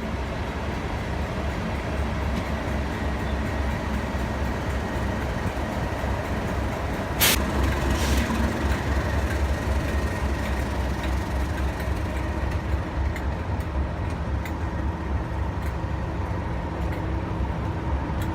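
English Electric Class 37 diesel locomotives running steadily, their V12 engines making a low rumble. About seven seconds in there is one short, loud burst of noise, with a weaker one just after.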